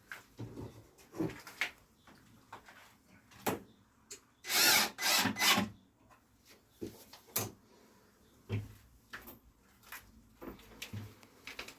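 Knocks, clicks and scraping of wooden battens and hand tools being handled during ceiling framing work. About four seconds in there is a louder noisy stretch of two or three strokes.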